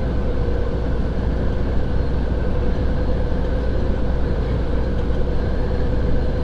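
Steady engine and road rumble of a semi-truck heard from inside the cab while driving, deep and unchanging, with a faint steady hum above it.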